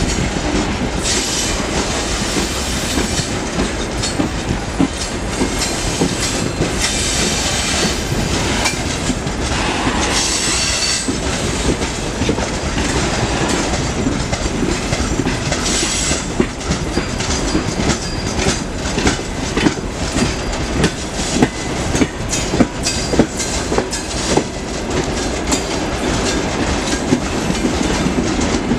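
Broad-gauge freight train loaded with ore rolling past, its wagon wheels clattering steadily over the rail joints. Several short high-pitched squeals come in the first half.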